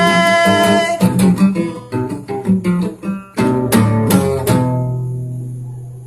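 Acoustic guitar strumming a run of chords, then a last chord left ringing and slowly fading out.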